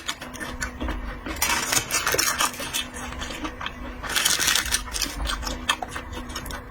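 Close-miked seafood eating: shells and utensils clicking and clinking against dishes, with two longer noisy stretches of chewing or slurping.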